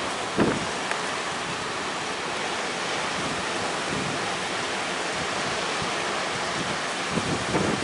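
Steady rush of wind and sea waves, with a few gusts buffeting the microphone about half a second in and near the end.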